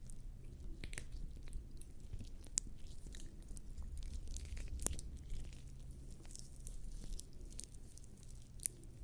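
Lubricating jelly squelching and crackling as bare skin rubs it over a microphone's ears: a dense run of irregular sticky clicks and wet pops, with a low rumble from the mic being handled.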